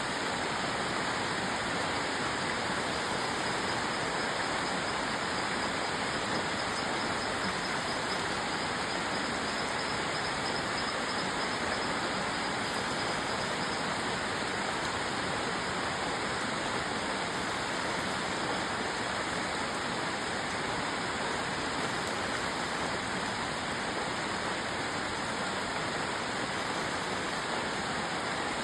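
Steady rain, an even, unbroken rush with no single drops, thunder or other events standing out.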